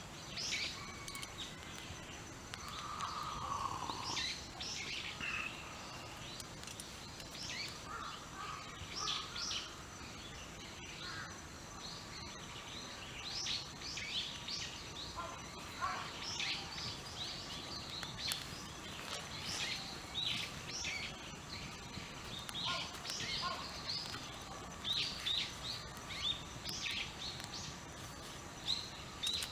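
Small birds chirping and calling, many short high chirps in quick irregular runs, over a faint steady background hiss.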